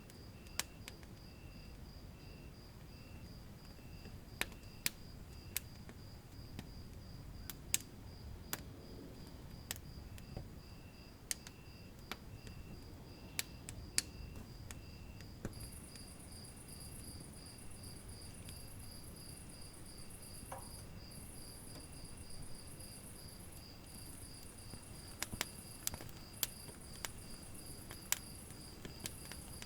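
Wood fire burning with a low, steady rumble and scattered sharp crackles and pops. Over it, insects chirp steadily in a fast pulsing trill, with a lower trill coming and going and a higher buzzing trill joining about halfway through.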